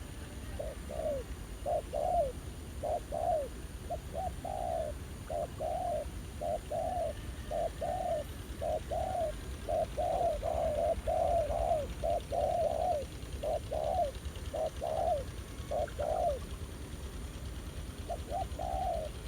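Spotted doves cooing over and over in short rhythmic phrases that follow closely on one another. The cooing breaks off for about two seconds near the end and then starts again.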